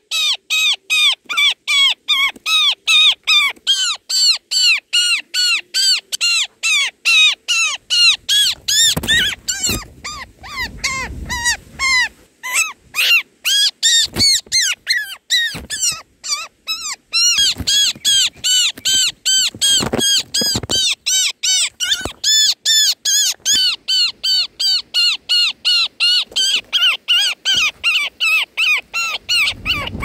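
Roller nestling giving begging calls in the nest: a rapid, unbroken series of calls, about three a second, as it begs for food.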